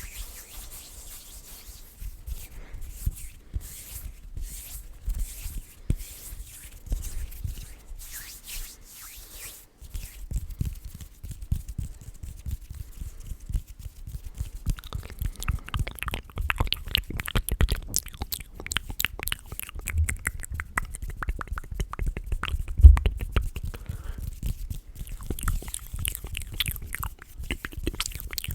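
Close-miked ASMR mouth sounds: quick wet clicks and smacks, preceded by soft rustling of hands rubbing for roughly the first ten seconds. One louder low thump about two thirds of the way through.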